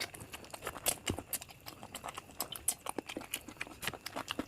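A person chewing a mouthful of biryani close to the microphone, with a quick irregular run of wet clicks and smacks.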